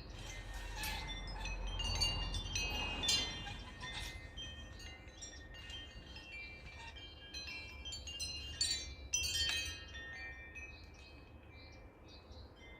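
Wind chimes ringing in the breeze, many tones struck irregularly and overlapping, busiest in the first few seconds and again near the end, over a low rumble of wind on the microphone.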